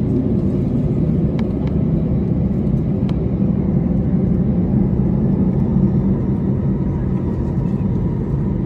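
Steady low rumble of an Airbus A320-214's CFM56 engines and airframe heard inside the passenger cabin, with a few faint clicks in the first three seconds.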